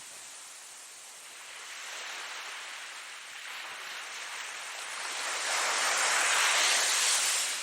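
Ocean waves breaking on a shore: a soft wash swells and eases, then a bigger wave breaks loudly about two-thirds of the way in and falls away near the end.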